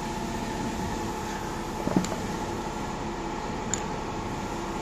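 A steady mechanical hum, with a light click about two seconds in and a fainter one near the end.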